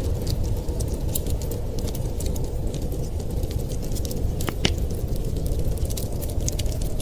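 Wood fire crackling in a fireplace: scattered small pops and snaps, with one louder pop about four and a half seconds in, over a steady low rumble of storm wind.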